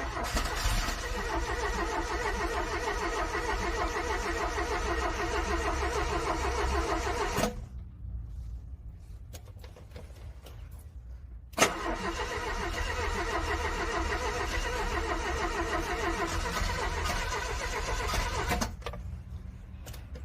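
Car starter cranking a cold engine in freezing weather, in two long attempts of about seven seconds each with a pause between them. Each attempt begins with a sharp click and stops abruptly: a hard cold start.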